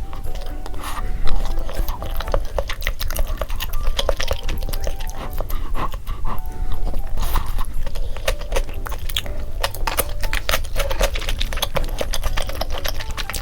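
Close-miked eating: a person chewing and biting tteokbokki in rosé sauce and boneless chicken feet, heard as many quick, irregular mouth clicks and crunches.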